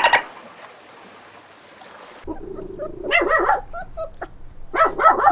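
A dog yipping and whimpering in short, high, repeated calls. They begin about two seconds in, after a stretch of faint hiss.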